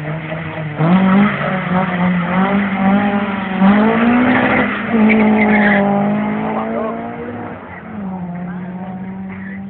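Drag-racing car engines at full throttle pulling away from the start line, the pitch climbing and then dropping as they shift up through the gears, fading as the cars run off down the strip.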